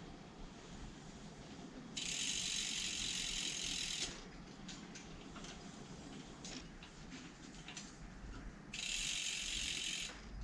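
Bicycle freewheel hub clicking as the wheel is spun, with two fast buzzing runs of about two seconds each and slower ticking between them. No squeal or rub comes from the disc brake, whose caliper has just been re-centred.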